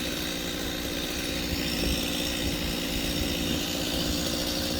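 A small engine or motor running steadily, with no change in speed.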